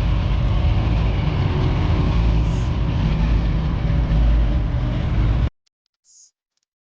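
Loud, low vehicle engine rumble with general noise, cutting off abruptly about five and a half seconds in, followed by near silence.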